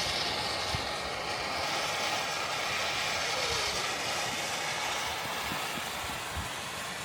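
Fireworks giving off a steady hiss, slowly fading.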